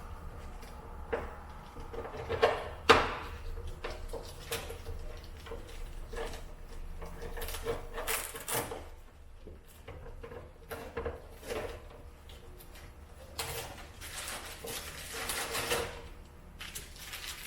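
Things being taken out of a cardboard box, with on-and-off rustling and handling noises and a sharp knock about three seconds in.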